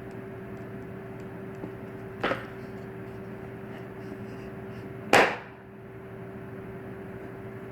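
Handling of a phone's box and packaging: two short, sharp snaps or knocks about three seconds apart, the second much louder, over a steady electrical hum.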